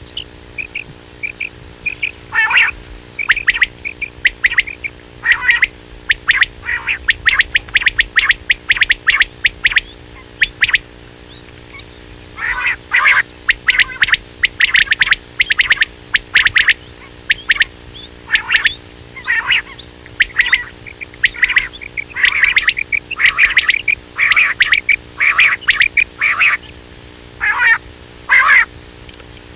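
Quail calling: quick runs of short, sharp, high notes repeated in bursts every second or so, over a faint steady low hum.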